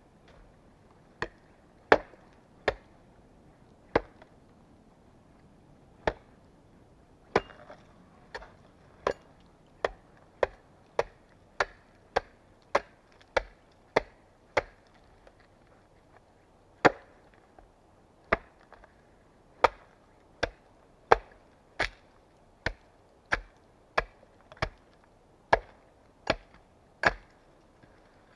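An axe chopping wood: about thirty sharp single strikes at an uneven pace, closer together through the middle at about two a second, with a few short pauses.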